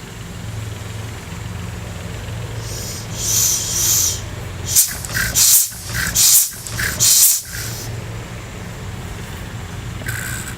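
1½ hp Ideal hit-and-miss engine running on a cold start, a steady low running sound throughout. Between about three and seven and a half seconds in comes a louder run of sharp, hissing bursts, about half a dozen.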